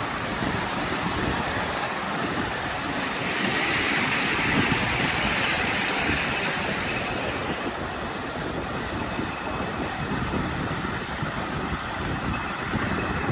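Miniature railway train running on its track: a steady rumble and rattle, with a louder hissing stretch for a few seconds in the middle.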